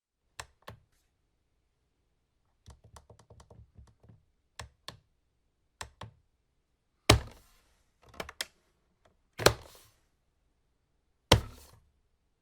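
A sequence of sharp clicks and knocks: two light clicks, a quick run of about a dozen taps, a few more paired clicks, then four much louder knocks, each with a short ringing tail.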